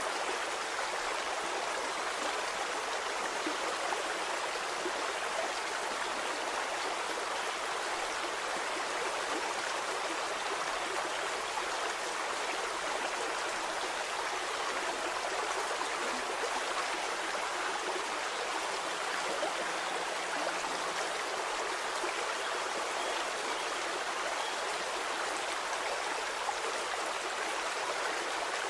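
Shallow stream of flowing water, a steady, even rush of babbling water with fine splashing and no pauses.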